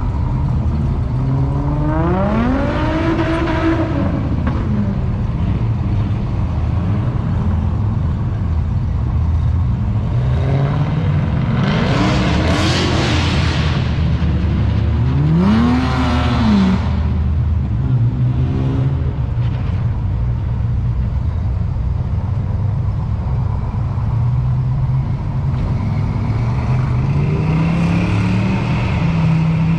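Car engine revving sharply up and back down three times, with a slower climb in revs near the end, over a steady drone of engine and road noise.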